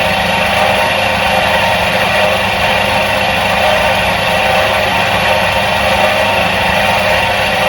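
Electric motor of a 1977 Soviet washing machine running steadily: a constant low hum with an even whirring hiss above it.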